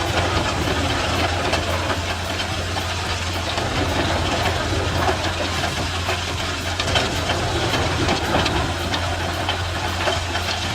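Wood chipper running steadily: a constant low engine hum under a dense, even noise.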